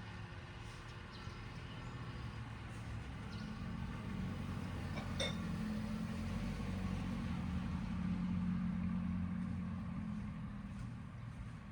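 An engine running with a low steady hum that grows louder over several seconds and then fades, with a single sharp click about five seconds in.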